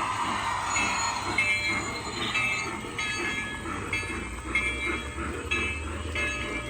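Garden-scale model train running on its track. A hiss fades out about a second in, followed by short high-pitched tones repeating about twice a second over a low rumble.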